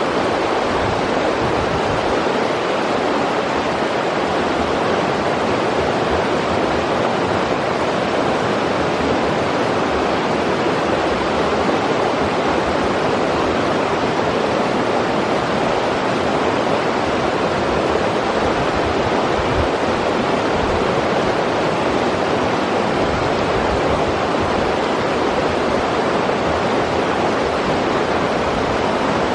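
A river rushing steadily, a constant even sound of flowing water.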